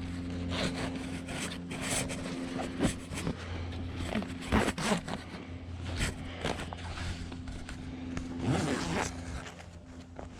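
Cloth rustling and scraping with zipping as a beekeeping suit and veil are put on and fastened: many short irregular strokes over a steady low hum.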